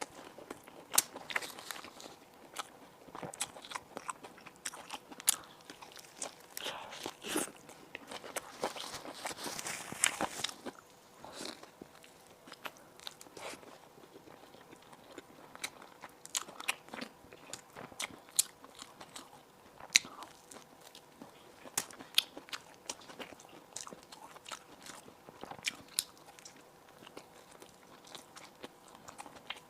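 Close-up eating sounds: a person biting and chewing crunchy food, crisp bread or buns, with many sharp crackling crunches. A denser, louder stretch of crunching comes about eight to ten seconds in.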